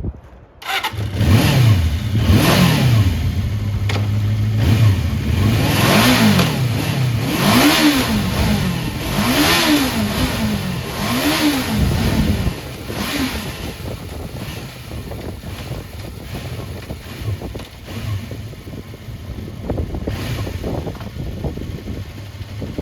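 The 398 cc air-cooled inline-four engine of a 1983 Suzuki GSX400F with an aftermarket muffler comes in about a second in. It is blipped several times, five quick revs rising and falling, then settles to a steady idle. It revs up cleanly, a sign of a healthy running engine.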